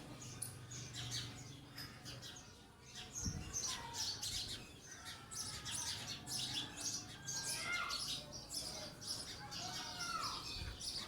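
Birds chirping: a busy run of many short, high chirps, with a few lower falling calls joining in near the end.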